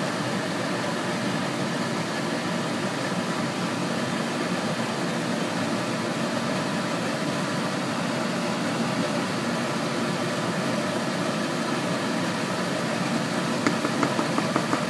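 Steady, even whirring hiss like a running fan, with a few light clicks near the end.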